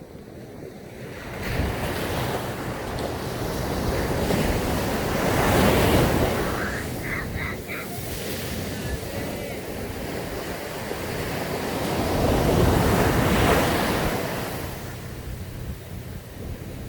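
Sea waves breaking and washing up a sandy beach, the surf swelling to two peaks, about six and thirteen seconds in, then easing off.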